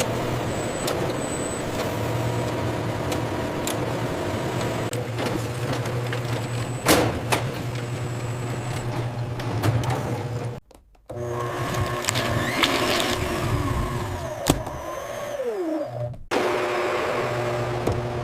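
Factory production-line machinery running with a steady hum and scattered clicks and knocks. The sound cuts out briefly near the middle, and a falling whine comes near the end.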